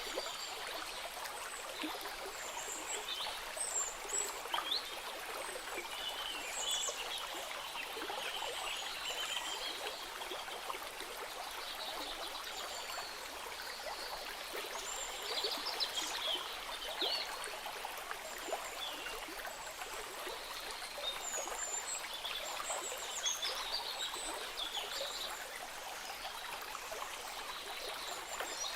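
A small stream trickling and babbling steadily. Short high bird chirps and whistles come and go over it.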